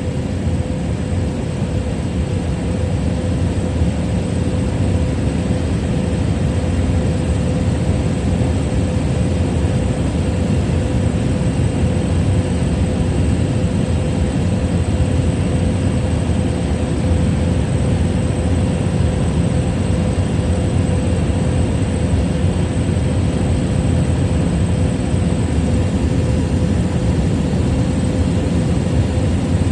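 Steady drone of a small plane's engine and propeller, heard from inside the cabin in flight, with a constant low rumble and a faint steady hum above it.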